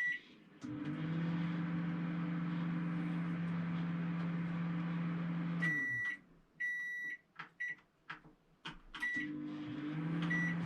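Microwave oven beeping once, then humming steadily while it heats. About six seconds in the hum stops; several keypad beeps follow, and it starts humming again near the end.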